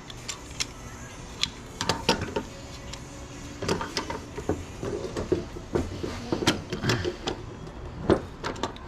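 Irregular metallic clinks and knocks of hand tools and loose metal parts, a few a second, as electrical switchgear is taken apart by hand.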